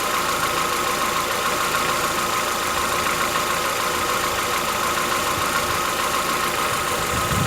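Chevrolet Onix 1.4 four-cylinder engine idling steadily after a cold start, with a diesel-like knock that the owner takes for tappet (valve lifter) knock.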